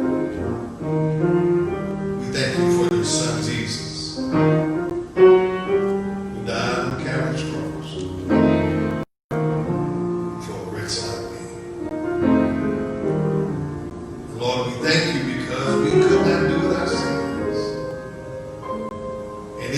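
Piano playing slow, sustained chords under a man's voice praying, with the sound dropping out for a moment about nine seconds in.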